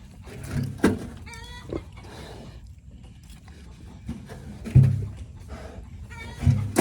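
Young pigs grunting in short low bursts, the loudest a little before five seconds in, with another animal's short higher-pitched call about a second and a half in.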